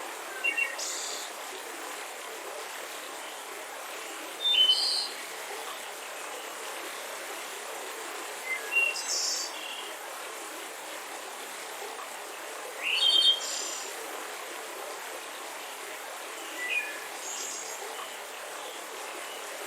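Songbirds chirping in short bright phrases every few seconds over the steady rushing of a mountain river.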